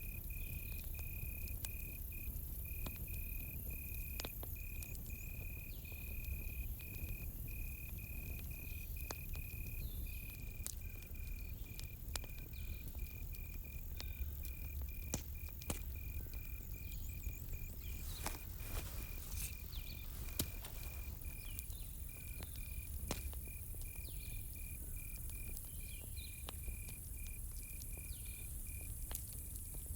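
Campfire crackling with scattered sharp pops, a small cluster of them about two-thirds of the way through, over a low steady rumble of the fire. A cricket chirps steadily throughout at about two chirps a second, with a high insect hiss above it.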